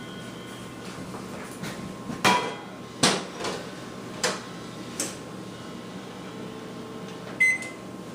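A series of sharp knocks and clatters in a kitchen, about six in all and irregularly spaced; the last, near the end, rings briefly like metal.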